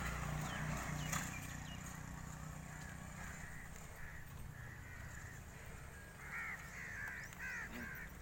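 A run of short animal calls, five or six in quick succession near the end, with a few fainter ones earlier, over a low steady hum.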